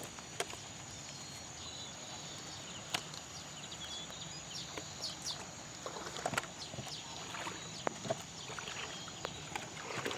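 Steady hiss of falling rain with scattered sharp ticks and a thin, high steady whine underneath.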